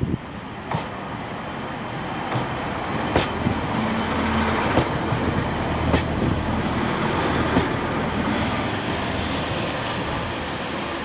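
A train passing through the station. Its steady rumble and rail noise build towards the middle and ease off, with sharp wheel clicks over the rail joints about every second or so.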